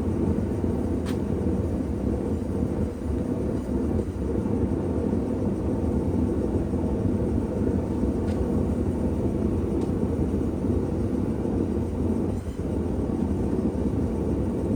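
Blacksmith's forge running with a steady low roar, with a few faint light ticks over it.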